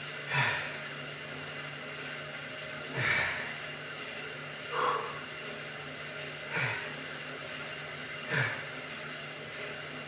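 A man breathing hard during a bike workout, with a heavy, slightly voiced exhale about every two seconds that falls in pitch, over a steady low hum.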